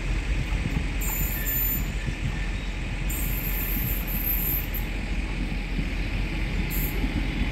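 Passenger express train hauled by a WAP-5 electric locomotive approaching along the track, with a steady rumble of the train running on the rails.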